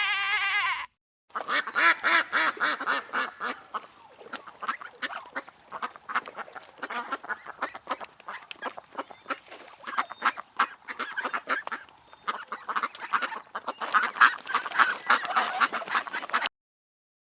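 A flock of ducks quacking: many short, rapid quacks overlapping for about fifteen seconds, then stopping abruptly. Just before them, the tail of a sheep's bleat ends in the first second.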